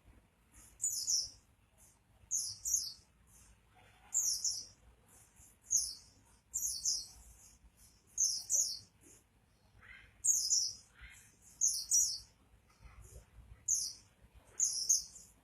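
White-eye (pleci) singing in full song: about ten short, very high-pitched warbling phrases, one every second or so.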